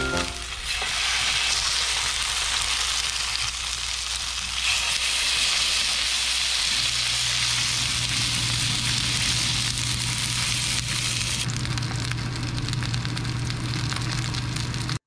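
Salmon fillets sizzling in hot oil in a frying pan, a steady close-up sizzle that changes in strength a few times. A steady low hum joins about seven seconds in.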